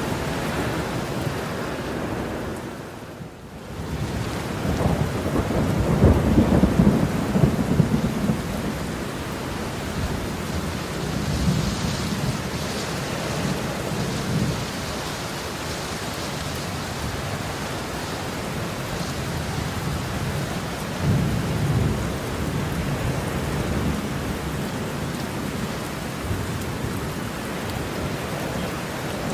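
Heavy rain falling steadily, with rolling thunder rumbling low: a strong roll swells about four seconds in after a brief lull, and a weaker one comes about twenty seconds in.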